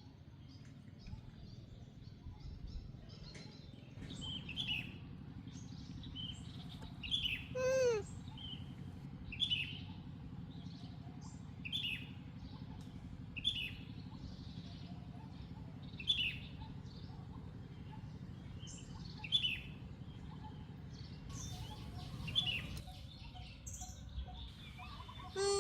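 A bird calling: short, high chirps that slide down in pitch, repeated about every two seconds, with one longer call falling far lower about eight seconds in. A steady low hum of background noise lies underneath.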